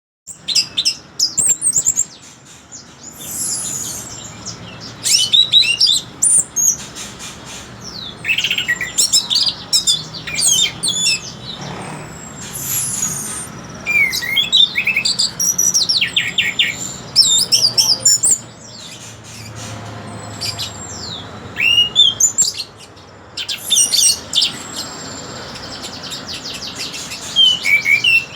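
Orange-headed thrush singing a varied, melodious song: phrase after phrase of quick sweeping whistles and rapid trills, separated by short pauses.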